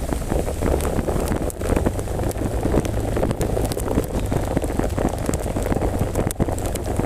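Wind rushing and buffeting on the microphone in heavy rain, with many sharp ticks scattered throughout.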